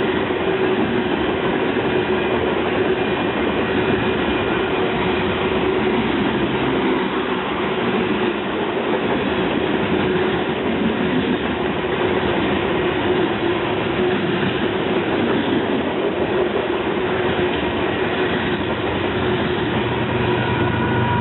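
A train rolling past on the tracks: steady, loud rumble and wheel noise on the rails, with a faint steady hum in it.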